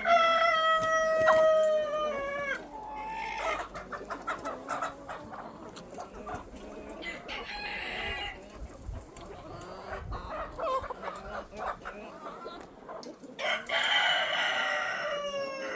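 Rooster crowing twice, once at the start and again near the end, each crow a long held call that drops in pitch as it ends. Chickens cluck in between.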